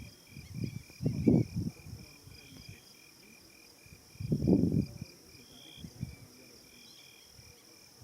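Insects chirping steadily in an even pulse of about three chirps a second. Two brief low rumbling gusts of noise come about a second in and again near the middle.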